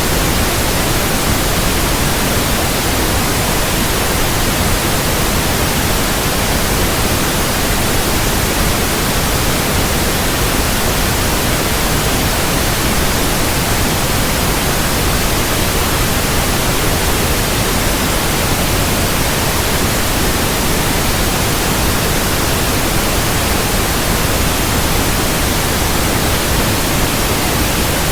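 Steady, loud white noise, an even hiss across the whole range of pitch with no change or pattern, played as a sleep aid for infants.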